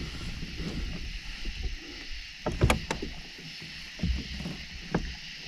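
Hobie Pro Angler kayak under way on its Mirage pedal drive: a handful of irregular knocks and clicks from the hull and drive over a steady high hiss.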